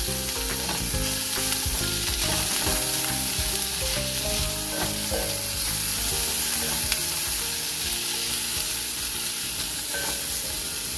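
Chopped garlic and onion sizzling steadily in hot cooking oil in a pan, stirred now and then with a utensil.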